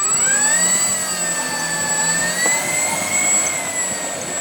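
Whine of the XFly J-65's twin 70 mm electric ducted fans. The pitch climbs in the first second, holds steady, then eases down a little near the end.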